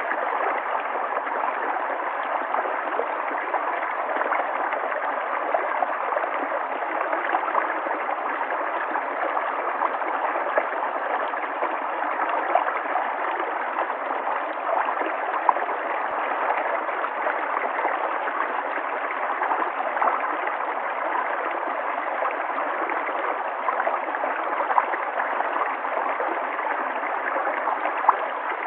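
River water flowing and gurgling: a steady rushing with small splashes now and then.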